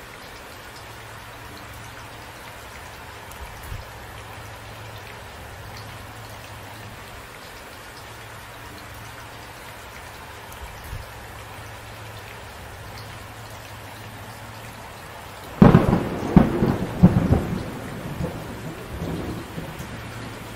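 Steady rain falling, then a sudden close thunderclap about three-quarters of the way through that cracks several times over a couple of seconds and rumbles away under the rain.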